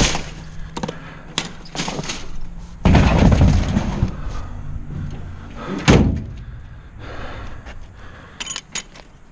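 Knocks, scrapes and thuds of plastic flower planters full of dry dead plants being handled and set down in a truck bed. The loudest is a scraping crash about three seconds in, with a sharp knock about six seconds in and a few light clicks near the end.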